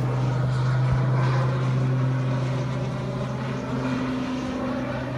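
Low-flying propeller airplane engine droning steadily, easing off slightly toward the end.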